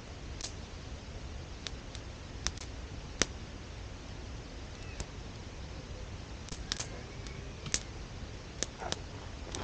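Wood fire in a fire stand crackling, with irregular sharp pops over a low steady hiss, the loudest pop about three seconds in.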